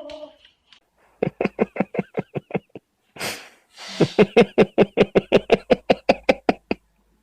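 A rapid run of short voiced calls, about six a second, in two bursts with a short breathy rush between them.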